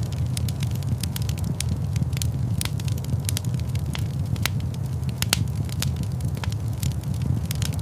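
Fire crackling in a large stone fireplace: a steady low rumble of flames with frequent sharp, irregular pops and crackles.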